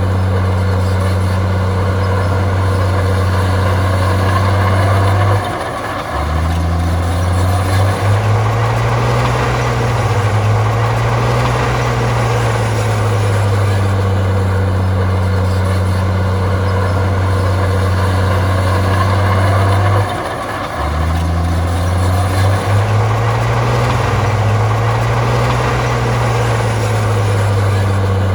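Komatsu bulldozer's diesel engine running steadily. Twice, about five seconds in and again about twenty seconds in, the engine note drops sharply, then wavers up and down for several seconds as the engine takes the load of a push before it settles again.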